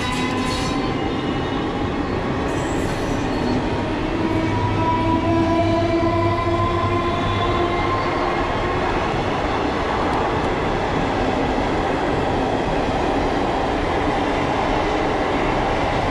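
Coaches of a push-pull passenger train rolling past close by as it accelerates: a steady, loud rolling rumble, with a whine that rises slowly in pitch over the first half.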